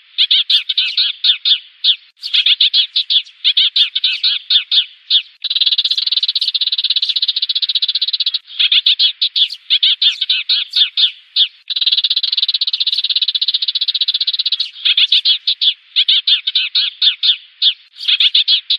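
Sparrows chirping in runs of rapid, sharp calls broken by short pauses, with two longer stretches of unbroken chatter. This is a sparrow decoy call for calling in the flock.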